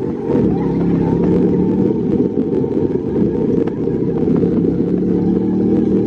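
Car engine running loudly with a steady, low drone that dips briefly and holds again.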